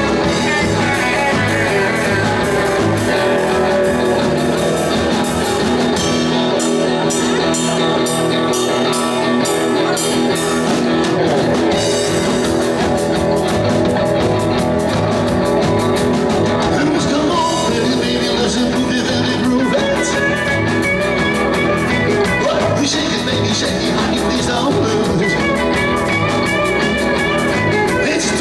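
Rock and roll band playing live: electric guitar over bass and drums with a steady beat.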